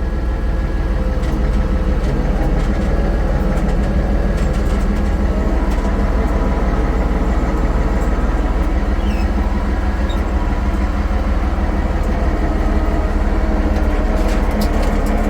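International 1066 tractor's six-cylinder diesel engine running steadily under load while skidding a log, with a few brief knocks near the end.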